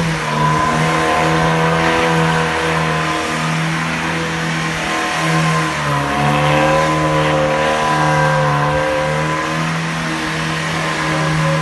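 Tofaş Doğan's inline-four engine revving hard and held at high revs, dipping briefly about halfway through and then climbing again.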